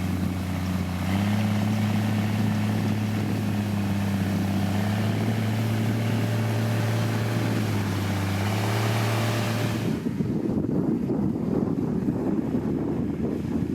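Diesel engine of heavy road-construction machinery running with a steady hum, its pitch shifting slightly now and then. About ten seconds in, the sound changes abruptly to a duller, rougher rumble.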